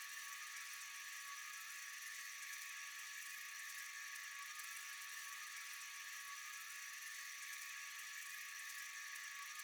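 Steady high-pitched chorus of night insects, an even shrill hiss with a few held thin tones and no breaks.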